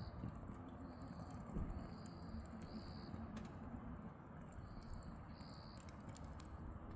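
Firewood burning in a fire pit, giving off scattered crackles and pops. A short high chirp repeats every second or so in the background.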